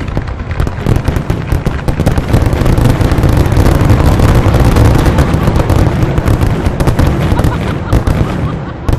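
Fireworks going off in a dense, rapid barrage: many aerial shell bursts and crackles overlapping into a continuous heavy rumble. The barrage peaks around the middle and thins out near the end.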